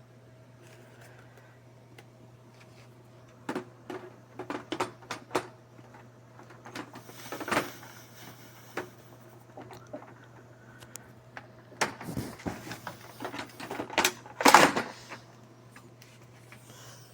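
Handling sounds: irregular clicks and knocks that start a few seconds in and are loudest in a dense cluster near the end, over a faint steady low hum.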